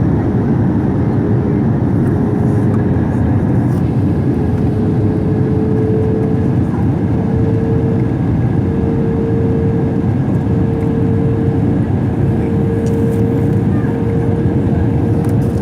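Passenger jet cabin noise on the descent to landing: a steady roar of the engines and rushing air, with a thin whine that rises slightly in pitch. The landing gear has just been lowered.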